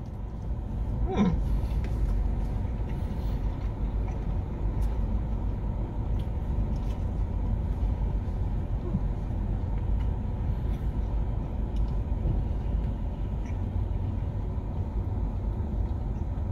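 Steady low rumble of a car's engine idling, heard from inside the cabin, with faint clicks of a man chewing a mouthful of burger.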